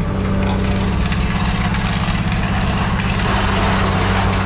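Heavy machinery engine running steadily: a low hum with fast, even firing pulses and mechanical noise over it.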